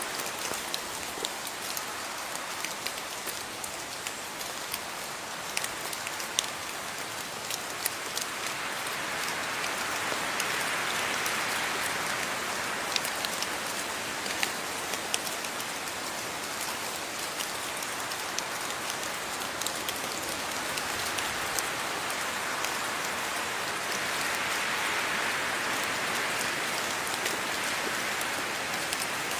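Steady rain falling, with many individual drops ticking sharply over the hiss. It swells a little heavier twice, about a third of the way in and again near the end.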